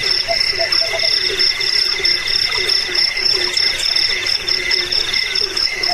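Crickets and other insects trilling steadily in a high, pulsing chorus, with a lower call repeating about three times a second beneath it.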